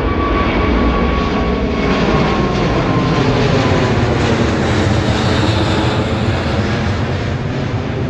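Airbus A380 jet engines running at high power: a loud, steady rumble with a faint whine that slowly falls in pitch over the first few seconds.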